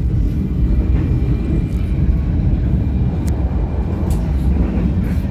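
Passenger train running at speed, heard from on board: a steady low rumble of the wheels on the track, with a couple of faint clicks.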